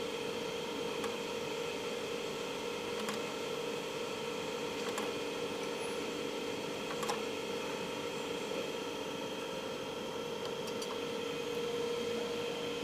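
Faint clicks about every two seconds from a hand-operated cold-welding die being pressed stroke by stroke on copper rod, over a steady background hum with several tones.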